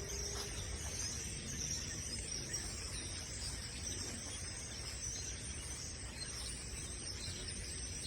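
A steady, high-pitched chorus of many small animals calling at once, with a low rumble of wind underneath.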